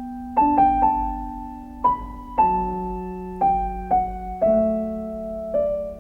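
Background music: slow solo piano, single notes and chords struck one after another and left to ring.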